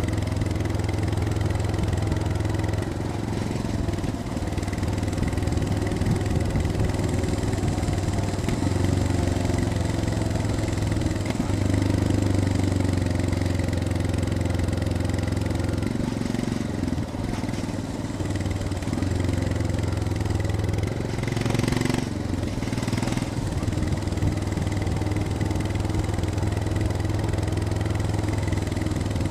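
Royal Enfield Scram 411's air-cooled single-cylinder engine running at low, fairly steady revs, with the pitch shifting a little as the throttle changes. Two short rushes of noise come about two-thirds of the way through.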